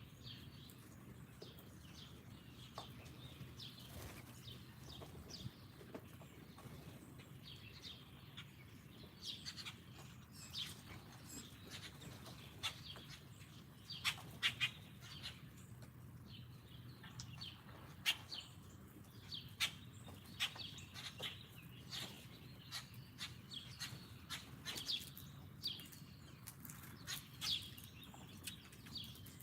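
Small songbirds chirping in many short, quick calls, busier after the first several seconds, over a faint steady low hum.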